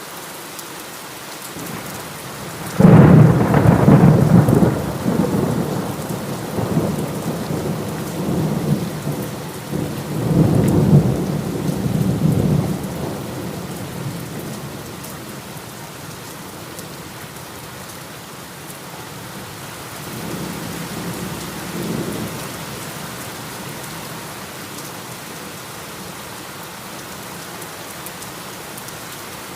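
Steady heavy rain with a loud thunderclap about three seconds in that rolls on in several rumbling surges for about ten seconds, then a fainter roll of thunder about twenty seconds in.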